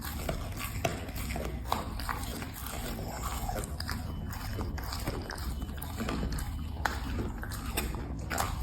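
A dog chewing and biting food, with irregular clicks and smacks of its mouth.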